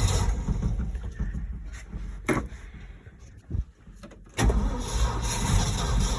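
Ford F600 truck engine running with a heavy low rumble, then dying away over about two seconds; after a quieter stretch with a couple of sharp clicks it starts again about four seconds in and runs on. The engine has a loose connecting rod and a JB Weld-patched hole in its block, which it is blowing oil through.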